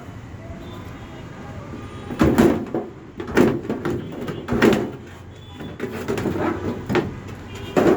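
A series of knocks and clattering bangs, the loudest about a second apart, with a busier patch of clatter near the end, over a steady background noise.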